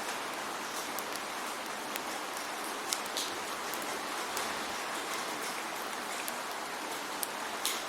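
Steady rain falling, a dense even hiss with scattered sharper drips and patters landing close by.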